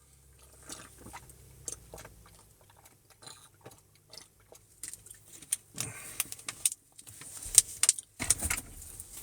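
Handling noise: scattered, irregular light clicks and taps over a faint low hum.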